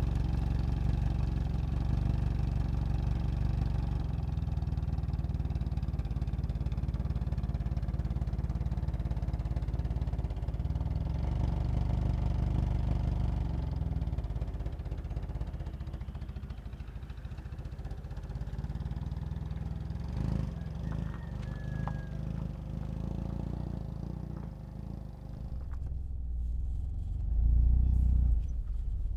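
A sedan's engine running steadily just after starting, a low rumble. Near the end the sound turns muffled and deeper, as heard from inside the car's cabin.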